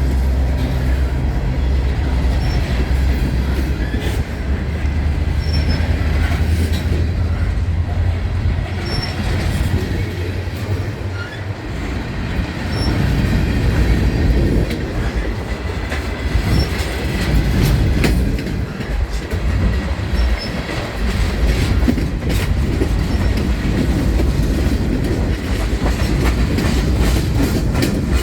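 Diesel-hauled freight train passing close by: a heavy low locomotive engine rumble for roughly the first ten seconds, then the cars rolling past with repeated wheel clicks over the rail joints and a few brief high wheel squeals.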